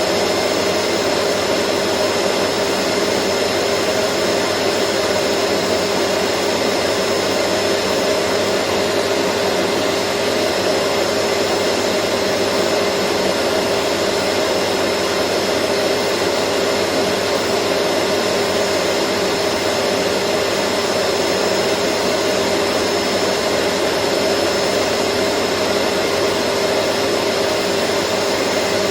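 Vacuum cleaner motor running continuously at a steady pitch: a constant airy whoosh with a fixed hum and a thin high whine on top.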